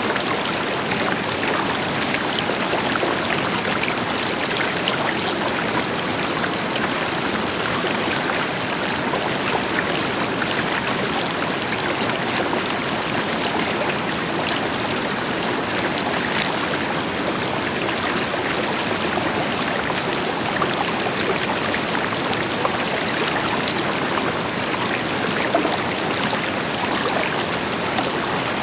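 A river flowing over rocks, with the deeper rush of a distant waterfall behind it: a steady, even rush of water dotted with small splashes, without birds.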